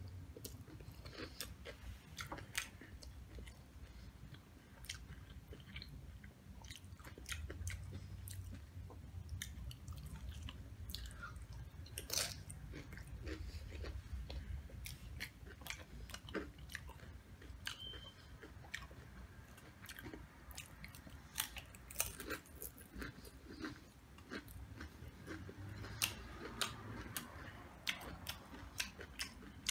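Close-miked chewing of Doritos nachos: crunching tortilla chips, with many sharp wet mouth clicks and smacks throughout.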